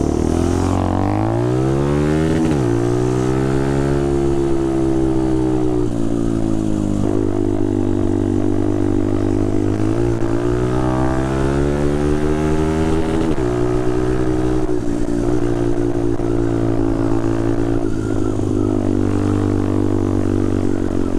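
Motorcycle engine under way, picked up from on the bike. The engine note climbs under acceleration, drops sharply at a gear change about two and a half seconds in, then rises and eases with the throttle, with another drop around thirteen seconds in.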